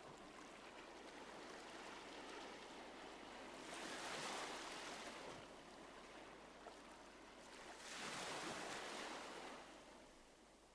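Faint rush of churned water in a ferry's wake, swelling louder twice, about four seconds in and again near the end.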